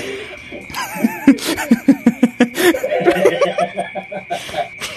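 People laughing hard, in quick repeated bursts of ha-ha-ha.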